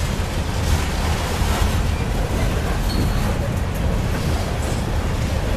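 Freight train rolling past at close range: a steady rumble of steel wheels on rail from coil cars and tank cars. A short, faint high squeal about three seconds in.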